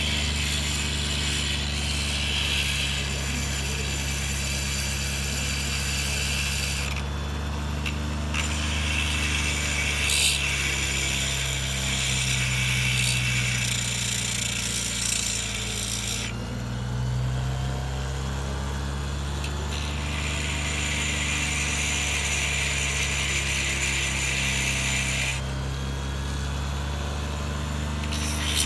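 Power tool motor running steadily, with a high hissing cutting or grinding noise on the workpiece that stops and restarts three times.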